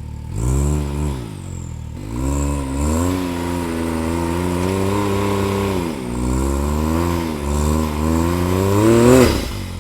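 Side-by-side's engine revving hard in three pushes, its pitch rising and falling as it strains to climb, the last rev building to a loud sharp burst near the end.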